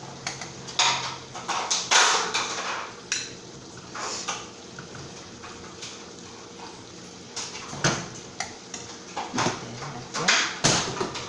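Dishes and utensils being handled: scattered clinks and knocks, with a quieter spell of a few seconds in the middle, over a faint steady hum.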